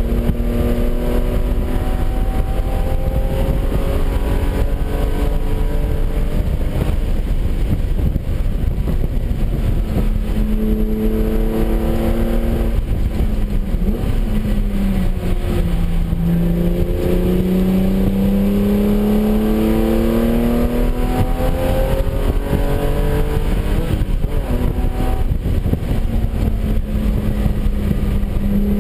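Porsche 996's flat-six engine heard from inside the cabin at speed on track. The engine note climbs under power, drops as the car brakes about halfway through, then rises again under acceleration, over a steady rumble of road and wind noise.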